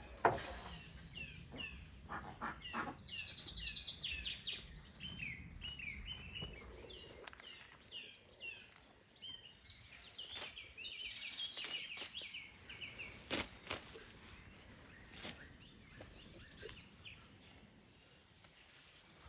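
Small birds chirping and singing, a quick run of short repeated chirps that thins out after about two-thirds of the way, with a few sharp knocks, one near the start.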